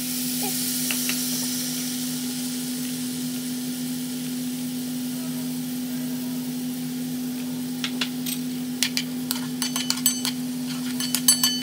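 Tomatoes and onions frying in a pan hiss as water is poured in, then settle to a steady sizzle over a constant low hum. From about eight seconds in come a run of light clicks and taps.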